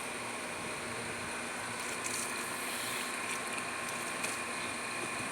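Steady mechanical hum and hiss from a running machine, with no change through the stretch.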